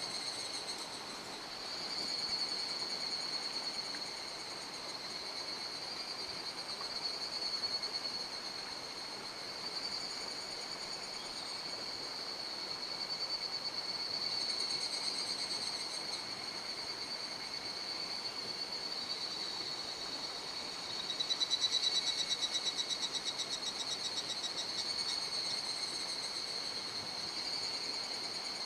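Insects chirring without a break, a steady high-pitched buzz, over the faint rush of a mountain stream. A louder, rapidly pulsing trill joins in for a few seconds past the middle.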